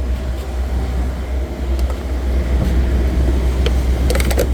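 Engine running steadily with a low rumble, and a few sharp clicks about four seconds in.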